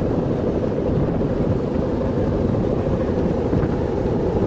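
Strong wind buffeting the microphone: a steady, loud, low rumble with no breaks.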